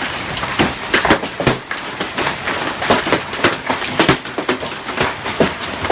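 Large hailstones pounding hard surfaces: a loud, dense, irregular clatter of sharp impacts, several a second, over a steady hiss of falling ice.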